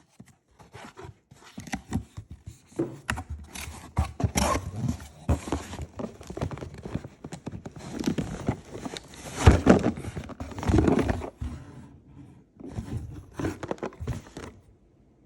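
Handling noises: a busy run of clicks, scrapes and crinkling, loudest around the middle, with a short pause about twelve seconds in.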